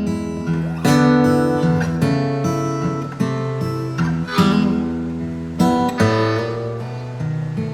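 Strummed acoustic guitar playing the introduction of a song: a run of chords, each struck about once a second.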